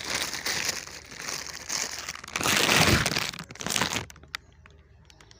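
Packaging crinkling and rustling as a new engine piston is handled, loudest near the middle; it stops about four seconds in, leaving a few light clicks.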